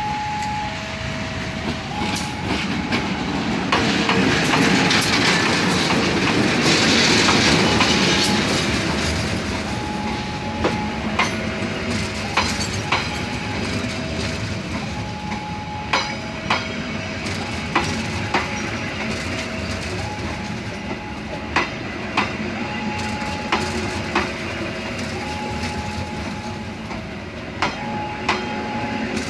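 A diesel locomotive and its passenger coaches roll slowly past at close range during shunting. The locomotive is loudest a few seconds in, then the coaches pass with repeated clacks of wheels over rail joints. A two-note electronic tone alternates steadily throughout.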